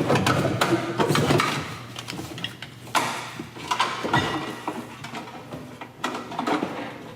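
Irregular knocks, scrapes and rustles of an old car heater box and its vacuum lines being worked loose and pulled out.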